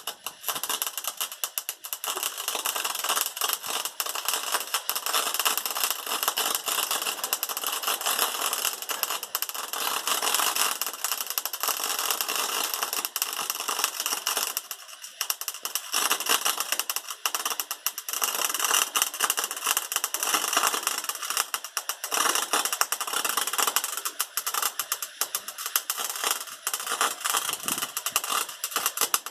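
Wire-feed (MIG) welder arc crackling in long, fast, irregular runs, with a few short pauses between runs.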